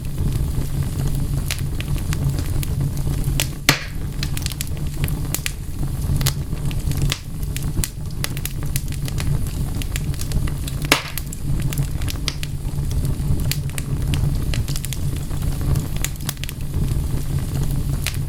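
Wood fire crackling: a steady low rumble of burning with frequent sharp pops and snaps, two of them louder, one a few seconds in and one past the middle.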